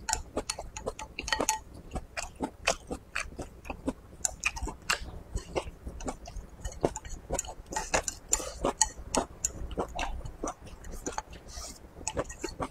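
A man chewing mouthfuls of rice, egg and green beans close to the microphone: a run of quick, wet mouth clicks and smacks, several a second.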